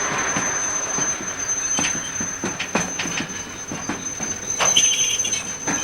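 Freight train rolling slowly while shunting, its wheels knocking and clanking irregularly over rail joints and points, with a brief high wheel squeal near the end.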